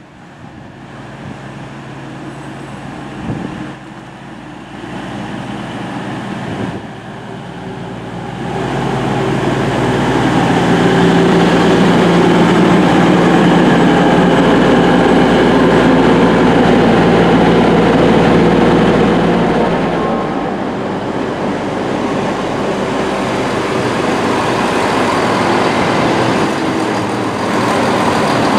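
East Midlands Railway diesel multiple unit running on the Midland Main Line. The engine and running noise build up over the first eight seconds or so, hold loud and steady with a low drone for about ten seconds, then ease off about two-thirds of the way through.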